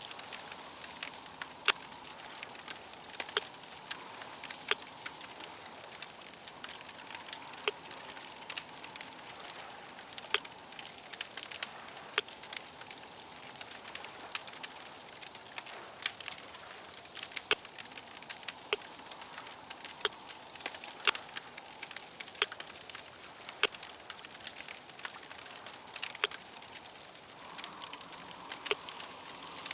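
Crackling fire: a steady hiss with frequent sharp, irregular pops and snaps.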